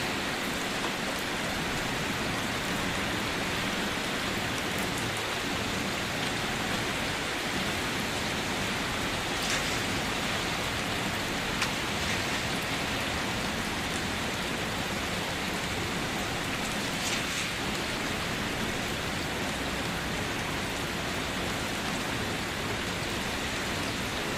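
Steady rain falling and pattering on surfaces, with a few louder individual drops standing out now and then.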